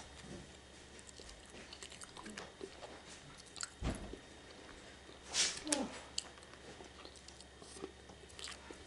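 A person chewing orange chicken and brown rice up close, with small clicks and scrapes of a plastic fork in a foam takeout box. A low knock comes about four seconds in and a louder short noise about five and a half seconds in.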